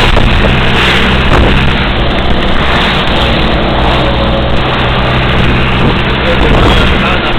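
Truck engine running steadily, with heavy road and wind noise, heard from on board the moving truck.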